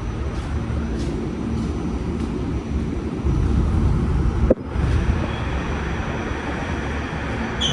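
New York City subway train running underground, a steady low rumble with faint clicks of the wheels a little under twice a second. About halfway through there is a sharp click with a momentary drop in the sound.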